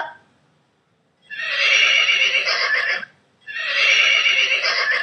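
Horse whinnying twice, two long neighs of nearly two seconds each with a short pause between them.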